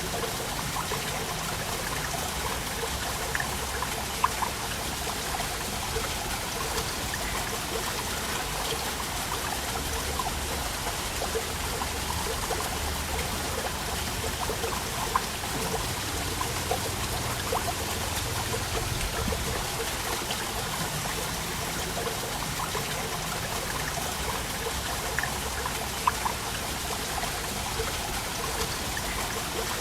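Waterfall: a steady rush of falling water with small splashes and drips scattered through it.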